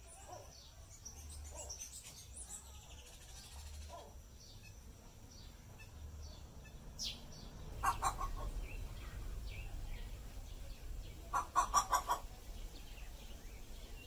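Eastern grey plantain-eater calling: two bursts of rapid, loud cackling notes, a short one about eight seconds in and a longer run of about six notes near twelve seconds, among faint high chirps of small birds.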